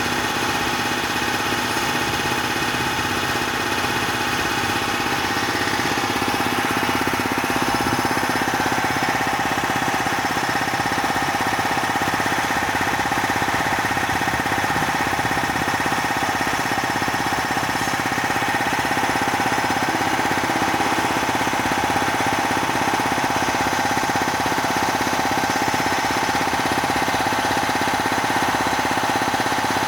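Bauer 330-bar high-pressure air compressor running steadily: a fast, even pulsing with a steady whine on top that grows a little stronger about eight seconds in.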